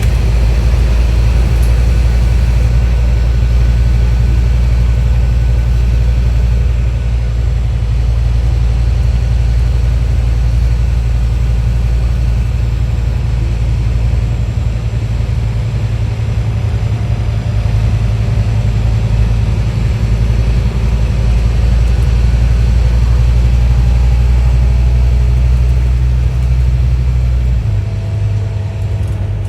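Scania N230UD OmniDekka double-decker bus's five-cylinder diesel engine running, a steady heavy low drone that shifts to a different pitch near the end.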